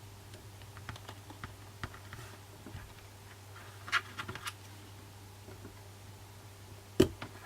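Scattered small clicks and taps of a fingernail and suction cup working at the edge of an iPhone 6s screen held down by adhesive, with a quick cluster of clicks about four seconds in and one sharp click near the end.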